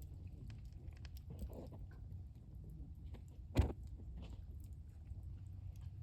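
Wood campfire crackling, with small scattered snaps over a steady low rumble and one loud pop about three and a half seconds in.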